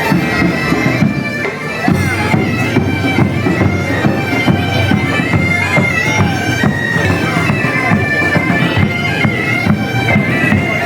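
Bagpipe music: a melody played over a steady, unbroken drone.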